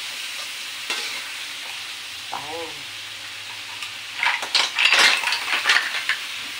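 Shrimp and crab sizzling in butter in a wok, stirred with a spatula. From about four seconds in, a spoon scrapes and clatters against a bowl and the pan as mussels are tipped in.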